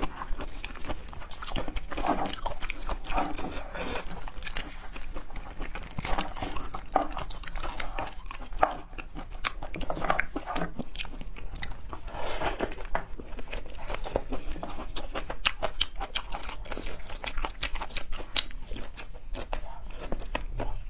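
Chewing and biting on seafood, with many irregular wet smacks and crunches.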